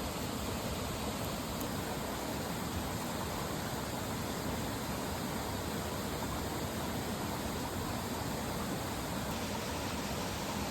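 Mountain stream rushing with a steady, even flow. Its hiss turns slightly duller about nine seconds in.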